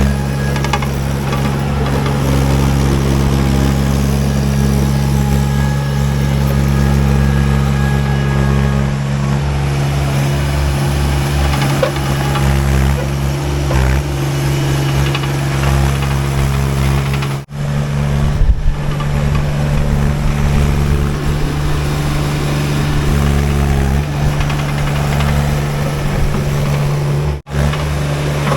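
Baumalight TRL620D mini skid steer's engine running at a steady speed, with two very brief breaks in the sound in the second half.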